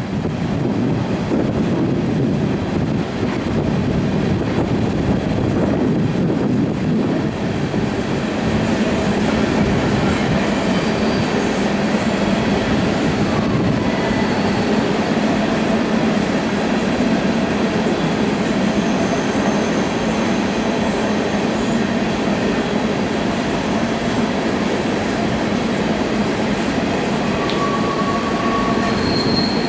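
A long string of empty steel coal hopper cars rolling past: a steady, loud rumble of wheels on rail with clickety-clack over the rail joints. A few faint, thin wheel squeals come and go in the second half.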